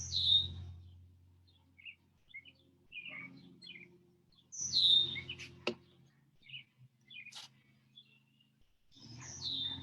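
Songbirds chirping, with scattered short high chirps and a few quick downward-sliding whistles, at the start, about five seconds in and near the end. Two sharp clicks come between the second whistle and the end.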